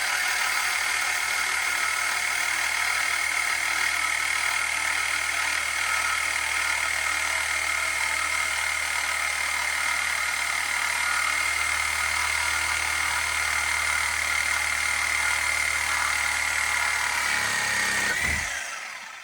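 Handheld rotary power tool, such as a cutoff wheel or grinder, running with a steady high whine while working the Mustang's exhaust pipe. Near the end it winds down slightly in pitch and stops.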